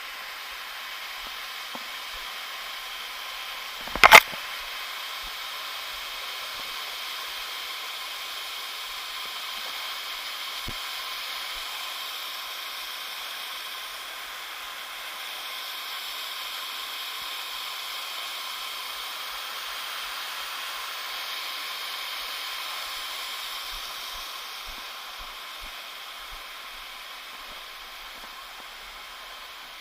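Steady hiss of rushing water from a waterfall stream, with one sharp click about four seconds in.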